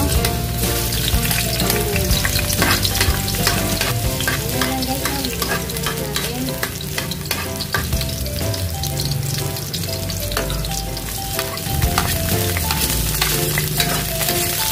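Garlic, onion and tomato sautéing in hot oil in a pan, a steady sizzle with many small pops as they are stirred.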